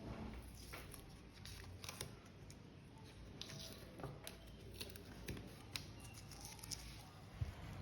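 Faint, irregular clicks and light taps of small parts being handled, over a low steady hum.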